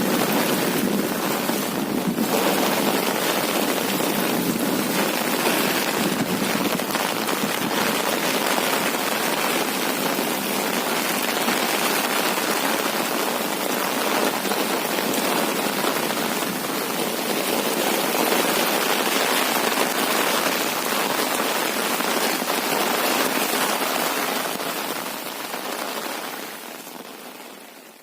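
Steady rain falling, a dense even hiss that fades out near the end.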